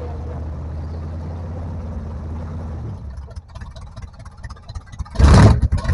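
An off-road 4x4's engine running steadily. About three seconds in it drops away. About five seconds in a loud surge of noise breaks in.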